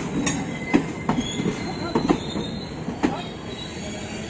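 ICF passenger coaches rolling slowly out of the station, their wheels clacking over rail joints about once a second, some clacks doubled, over a steady rumble. A faint high wheel squeal runs underneath.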